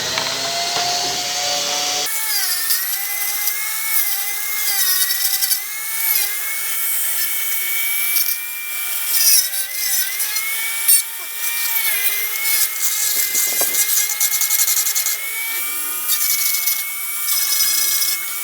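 Small electric grinder whining at high speed as it grinds out holes in plastic motorbike body panels, its pitch sagging briefly each time it bites into the plastic.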